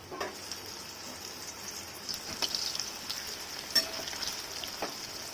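Boiled potato pieces sizzling as they go into hot refined vegetable oil in an aluminium kadai, the sizzle growing louder about two seconds in as more pieces are added. A few sharp taps from the pan and a slotted metal spoon, the loudest about four seconds in.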